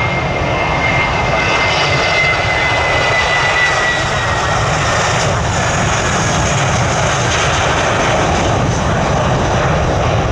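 Aircraft engines running loud and steady, with a high whine that slowly falls in pitch and fades about four seconds in.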